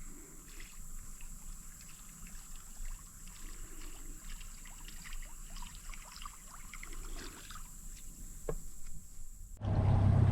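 Faint light trickling of water with small scattered clicks around a fishing boat. Near the end this cuts suddenly to a loud, steady low drone of the boat running.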